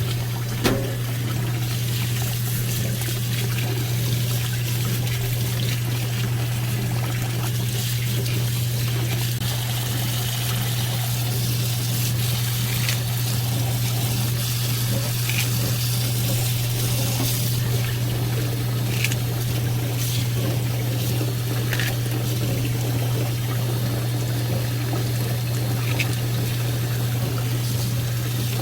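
Water running steadily from a kitchen tap into a sink, with a knock about a second in and a few light clicks.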